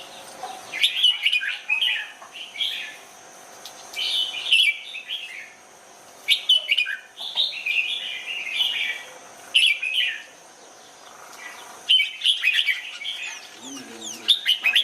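Red-whiskered bulbul singing: bright, quick chirping phrases of one to two seconds each, about six of them, separated by short pauses.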